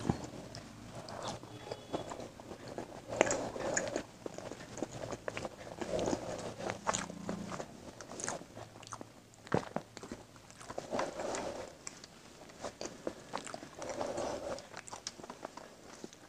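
Close-miked chewing of rice and egg curry, with many short wet clicks, and fingers mixing the rice and gravy on a steel plate.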